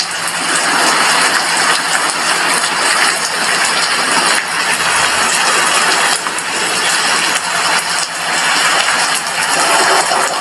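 Heavy rain falling steadily on a glass window: a dense, even hiss of drops.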